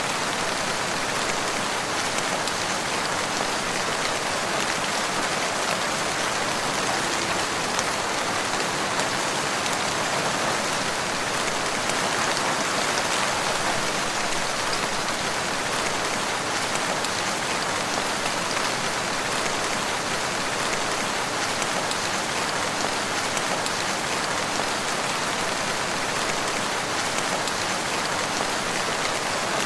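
Steady rain falling, a dense even hiss that holds unchanged throughout.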